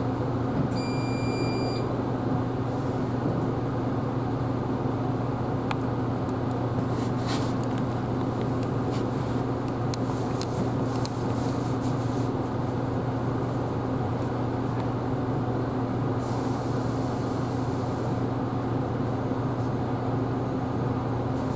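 Isuzu Erga Hybrid city bus standing with its engine running, heard from the front of the cabin as a steady low hum. A short high electronic beep sounds about a second in, and a few light clicks follow later.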